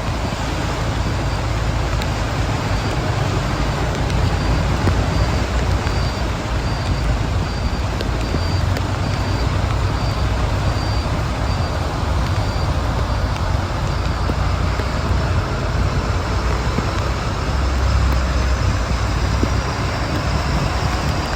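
Steady road-traffic noise while riding along a rain-flooded street, with a constant low rumble and passing vehicles.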